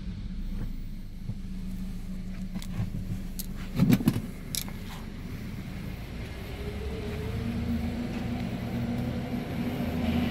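Hyundai Kona 1.6-litre turbocharged four-cylinder petrol engine idling steadily in Park. A few clicks and a louder knock sound about four seconds in.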